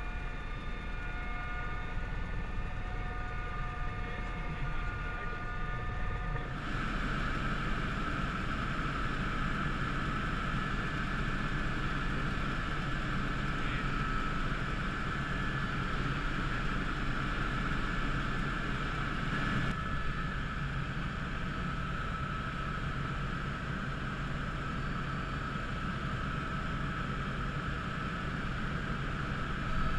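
Steady drone of an aircraft's engine heard from on board, with a constant whine and a low hum; its tone changes abruptly about six and a half seconds in.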